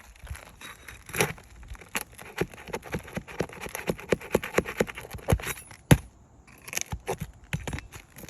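Series of sharp clicks and knocks from a roofer's tool working under a 3-tab asphalt shingle to lift it and reach a nail, several a second, with one louder knock a little before the end.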